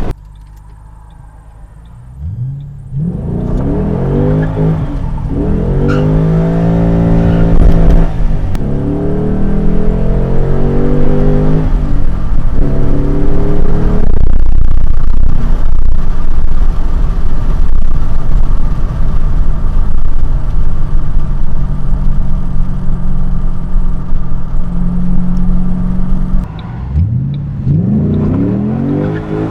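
Ford Mustang engine accelerating hard through the gears: several rising pulls, each broken by a brief dip at the gear change, after a quiet first couple of seconds. It then holds a steady cruising note, and another rising pull starts near the end.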